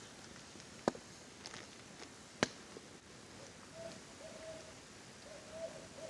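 Campfire crackling with two sharp pops in the first half, over a steady hiss of rain. An owl starts hooting a little past halfway, a run of low hoots that carries on to the end.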